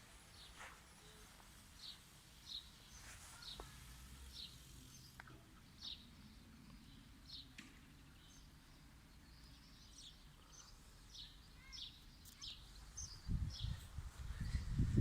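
A small bird chirping over and over, short high notes about once a second, over faint outdoor background. A louder low rumble comes in near the end.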